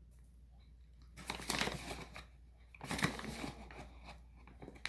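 Two short bursts of crinkly rustling, a little over a second each, as sweetener is handled and measured out by the tablespoon.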